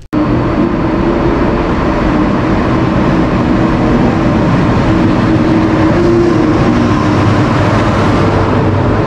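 KTX high-speed electric train running past a station platform: a loud, steady rush of noise with a low hum underneath.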